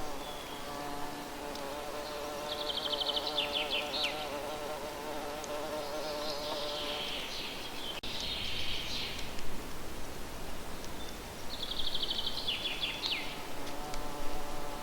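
A buzzing insect, a fly or bee, hums close by with a wavering pitch through the first half and again near the end. Twice, about nine seconds apart, a songbird sings the same short phrase: a rapid high trill ending in a few downward-sliding notes.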